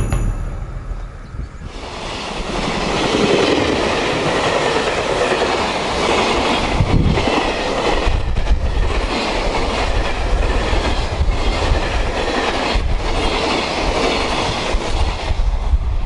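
A container freight train running past close by, its wheels clattering over the rail joints. The sound is quieter for the first two seconds, then builds to a loud, steady rush with scattered clacks.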